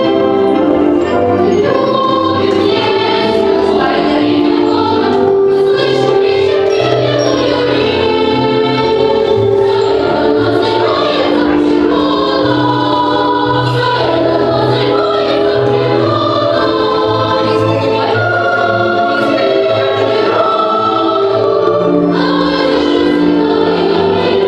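Music with a choir singing long held notes over a steady low accompaniment.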